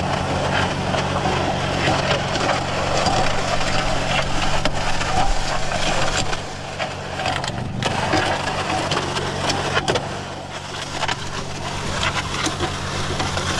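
Concrete mixer running with a steady motor hum while bagged concrete mix churns inside with a gritty, crunching rasp.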